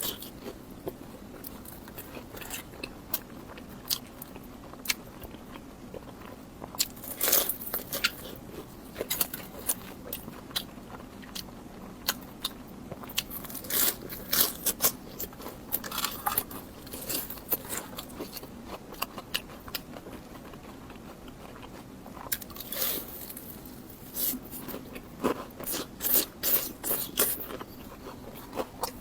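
Close-miked eating: bites and crisp crunching on fried food, with chewing in between, coming in irregular clusters of crackly crunches.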